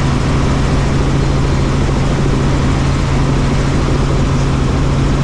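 Helicopter in flight: a loud, steady drone of rotor and engine with a strong low hum that holds unchanged throughout.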